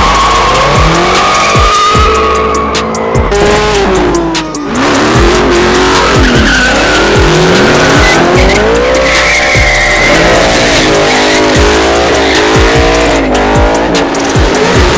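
Car engine revving hard, its pitch climbing and falling again and again, with tyre squeal from drifting. A heavy bass beat of music plays underneath.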